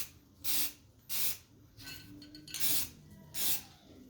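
Aerosol can of black stove paint sprayed in four short bursts, each a brief hiss with pauses between, onto the hot repaired stove door.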